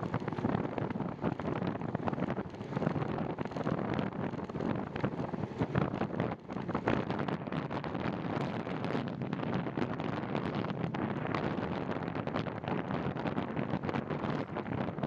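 Wind rushing and buffeting over the microphone of a camera riding on a moving bicycle, a steady rush broken by frequent short gusty thumps.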